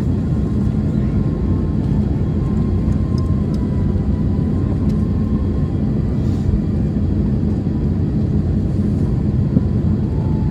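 Steady low rumble of an Airbus A321-211 heard from inside the passenger cabin, with a faint thin whine held above it.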